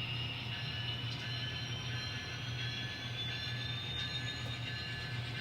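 Sound-equipped N scale model locomotive running on the layout: a steady low engine hum, with a faint high whine that slowly rises in pitch.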